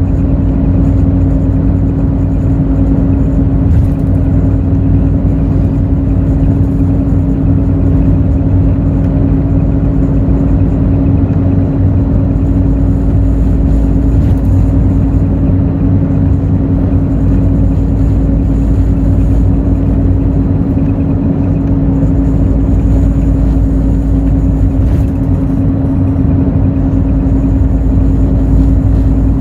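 Hino J08E-VD inline-six diesel engine of a Hino RN8JSVU-SSF bus running at a steady speed, heard from inside the bus. Its hum holds one pitch throughout with no gear change, over steady road noise.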